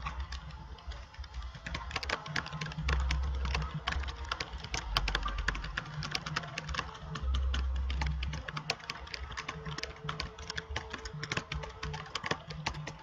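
Rapid, irregular clicking like typing on a keyboard, with a low hum underneath that comes and goes in blocks of about a second.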